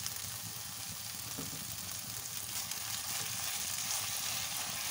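Soft cooked-down tomato, onion and garlic sauce base sizzling steadily in an oiled frying pan, a fine continuous crackle. Near the end a spatula stirs it across the pan.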